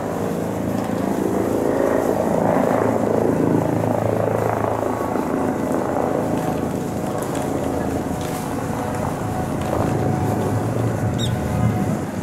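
Izukyu 2100 series electric train running, a steady low hum under a rush of wheel and running noise that swells a few seconds in.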